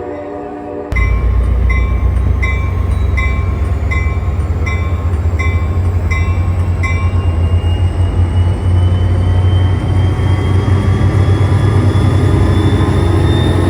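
A train horn's chord cuts off about a second in. A heavy train rumble follows, with a grade-crossing bell ringing about every three-quarters of a second until about seven seconds in. Through the second half a rising whine comes up as the train gathers speed.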